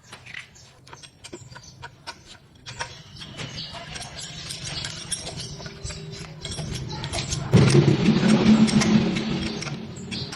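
Excavator engine running with scattered clicks and knocks, then surging sharply louder about three-quarters of the way in before easing off.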